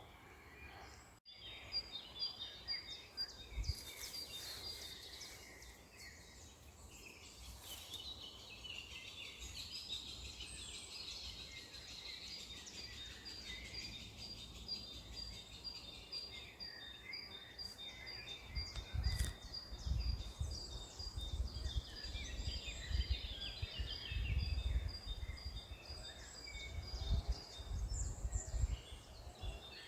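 Several wild birds chirping and singing together, over a rapid, evenly pulsed high trill that runs through most of the stretch. Low rumbling noise comes and goes in the second half.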